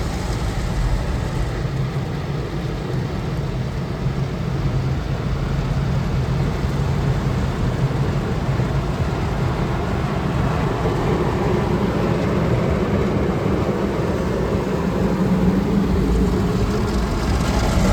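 Automatic car wash machinery running around the car, heard from inside the cabin as a steady, loud rumble with a low hum, getting somewhat louder toward the end.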